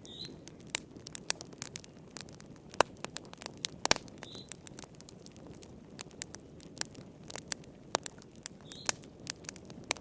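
Wood fire in a fireplace crackling, with frequent irregular sharp pops and snaps over a soft steady rush of the flames.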